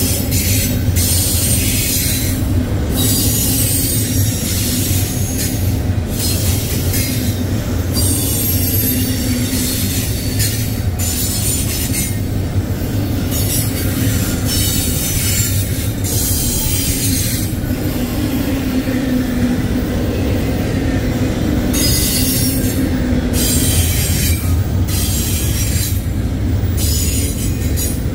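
Double-stack intermodal freight train's container well cars rolling past: a steady low rumble of steel wheels on rail, with a high-pitched wheel squeal that comes and goes every second or two.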